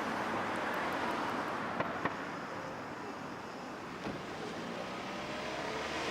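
Steady outdoor street noise of road traffic, with a couple of faint clicks about two seconds in.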